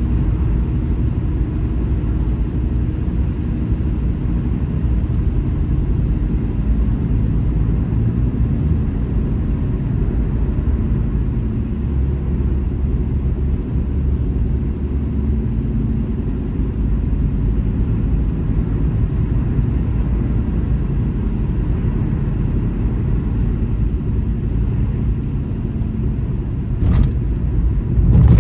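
Steady low rumble of a car travelling on a highway. Near the end come two brief sharp knocks, the second a little louder.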